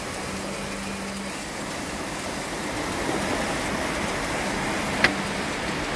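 Steady rushing roar of a nearby waterfall, with one sharp click about five seconds in.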